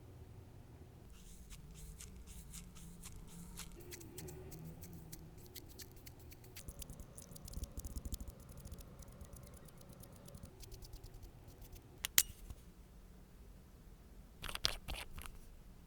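Small sharp clicks and taps of nail-care tools worked close to the microphone: a quick run of light ticks for the first several seconds, one louder click about twelve seconds in, and a short burst of clicks near the end.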